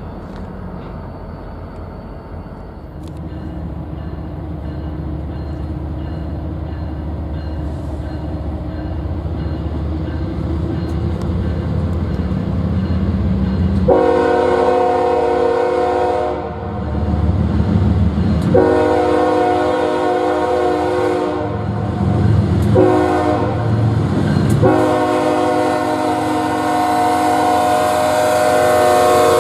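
Approaching diesel locomotive rumbling and growing louder, then its multi-chime air horn sounding the grade-crossing signal: two long blasts, a shorter one, and a long one held on.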